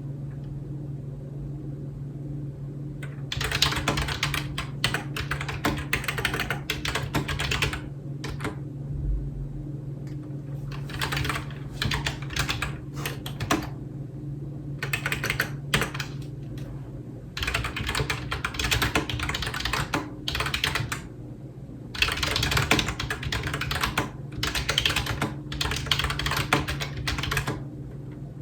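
Typing on a computer keyboard: quick runs of key clacks with short pauses between them, over a steady low hum.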